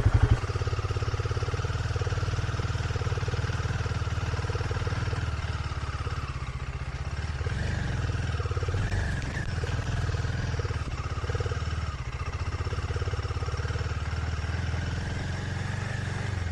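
Royal Enfield Himalayan 450's single-cylinder engine running steadily while the motorcycle is ridden along a gravel and dirt track.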